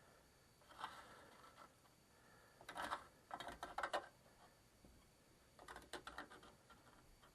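Faint clicking and rustling handling noises, in three short clusters about 1 s in, around 3 to 4 s in, and about 6 s in.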